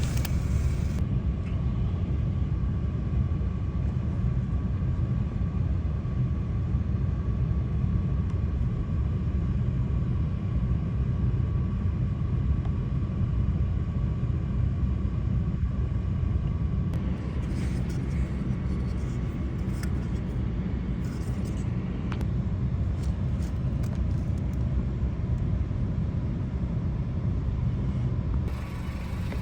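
A steady low rumble with a faint steady tone above it, and a few faint clicks in the second half.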